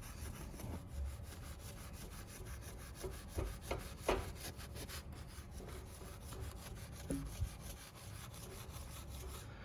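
Fine steel wool being rubbed back and forth over a chrome motorcycle rim, a faint scrubbing that takes rust off the chrome. A few light clicks come in the middle.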